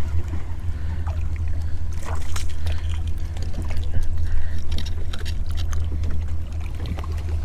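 Steady low rumble of wind buffeting the microphone, with scattered clicks and knocks of tackle being handled on a kayak.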